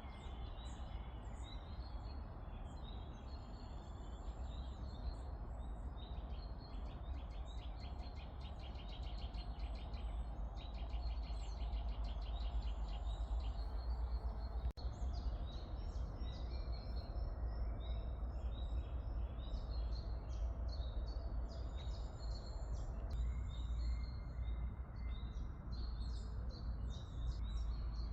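Several birds chirping and calling outdoors, with fast runs of repeated chirps, over a steady low background rumble.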